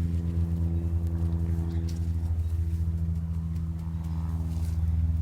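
An engine running at a steady pitch, a low drone.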